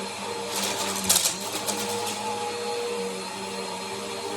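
Bissell Power Force upright vacuum cleaner running steadily, its motor giving a constant whine, with a brief crackling burst of hiss about a second in.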